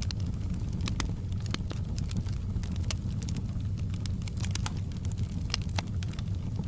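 Wood fire burning in a fireplace, a steady low rumble of flames with frequent irregular crackles and pops.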